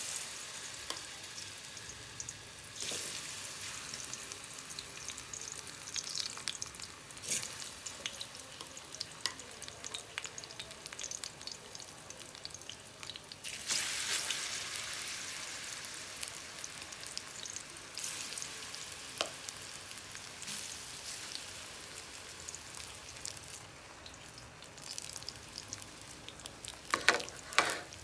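Sliced plantain frying in hot oil, a steady hiss and crackle of sizzling. It swells several times, as when more pieces go into the oil, and ends with a few sharp louder pops near the end.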